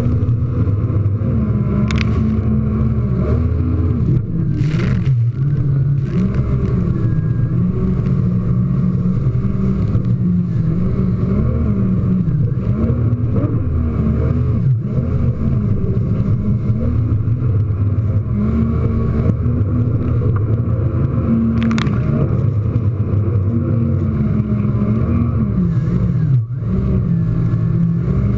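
Jet ski engine running hard, its revs rising and falling over and over as it rides and jumps waves, with a few brief sharp hits of water against the hull.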